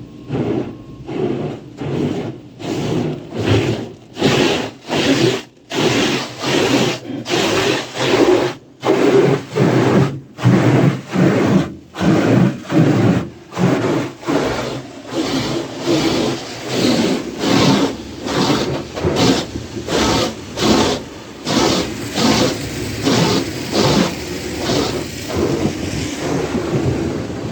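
Rotating cloth brushes in a car wash tunnel rubbing and slapping over a car's body in a steady rhythm, about one and a half swipes a second, turning quicker and lighter in the last few seconds.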